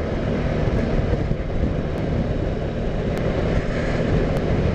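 Motor scooter engine running steadily while riding, with road noise.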